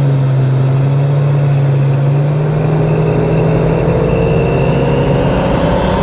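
Car engine running under load as the car accelerates, with a tone rising steadily in pitch through the second half.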